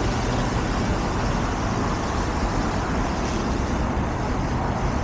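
OMPHOBBY M2 electric RC helicopter in flight, its direct-drive brushless motors and rotors giving a steady hum with a low drone.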